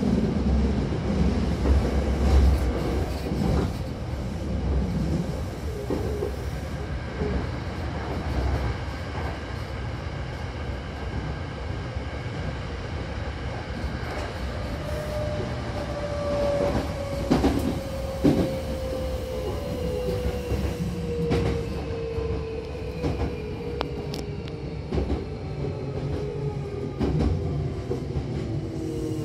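Electric commuter train running, heard from inside the car: a steady rumble of wheels on the rails with a few clacks. From about halfway a motor whine slides steadily down in pitch as the train brakes for its next stop.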